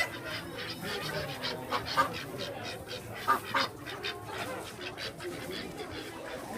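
Farm poultry calling in many short repeated calls, the loudest about two seconds in and again around three and a half seconds in.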